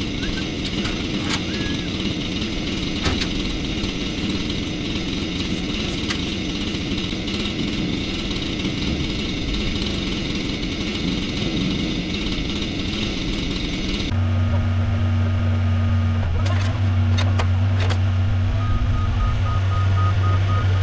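A chainsaw runs steadily for most of the clip, then the sound switches abruptly to a large engine running with a steady low hum. Faint repeated beeping, like a reversing alarm, starts near the end.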